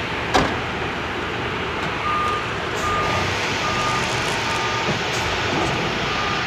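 Isuzu eight-wheeler truck with its 10PD1 diesel engine running as it moves slowly. Its reversing alarm starts beeping about two seconds in, a short beep a little more than once a second. There is one sharp knock near the start, and no clanking from the floating cab, whose tilting bushings have just been replaced.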